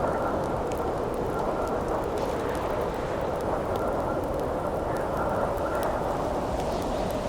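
Campfire crackling with sharp, scattered pops over a steady wind blowing, which carries a faint high whistle.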